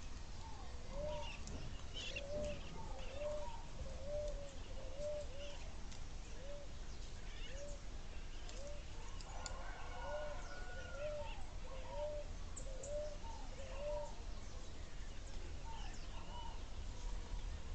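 Wild birds calling: a long run of short, arching low notes, about two a second, with scattered thin high chirps from smaller birds over a steady low rumble.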